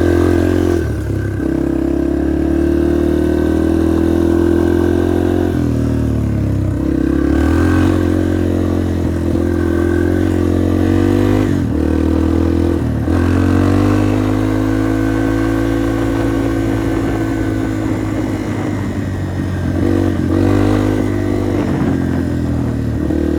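Yamaha TT-R230 dirt bike's single-cylinder four-stroke engine running under throttle. Its pitch dips and climbs again four or five times as the throttle is rolled off and back on.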